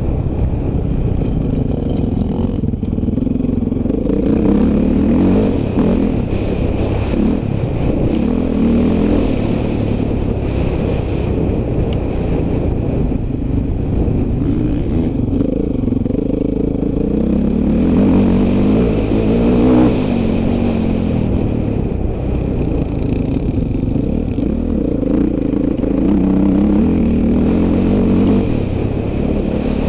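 Dirt bike engine being ridden off-road, its revs rising and falling over and over as the throttle is opened and closed, with a louder burst of revs around the two-thirds mark.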